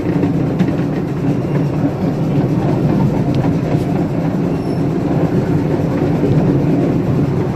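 Ride-on live-steam train rolling along the track: a steady, loud rumble and rattle of the cars and wheels on the rails.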